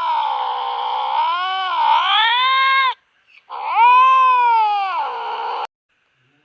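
Domestic cat yowling in long, drawn-out caterwauls: one call wavers and dips in pitch, then after a short pause a second call rises and falls.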